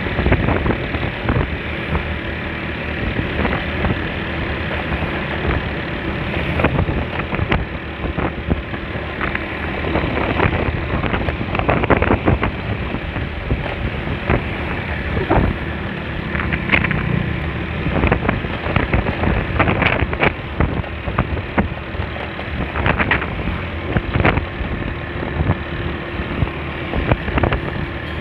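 Honda Spacy scooter on the move: wind rushing over the microphone over the steady running of the scooter's small engine, with many brief knocks and gusts throughout.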